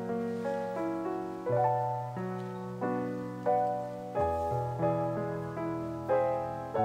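Background music: slow, gentle solo piano, notes struck one after another and fading, over low bass notes.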